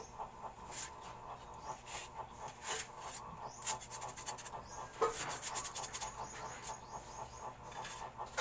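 Hand scraping on a sink under repair: irregular short rasping strokes, with a quick run of strokes about five seconds in.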